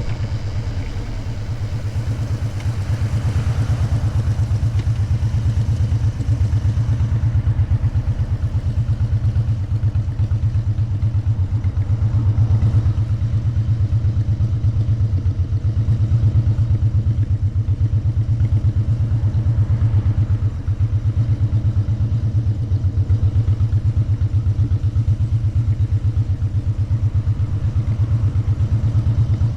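Motorcycle engine running steadily while riding, heard from on board, with a low, even pulse of exhaust beats; the level dips briefly about twenty seconds in.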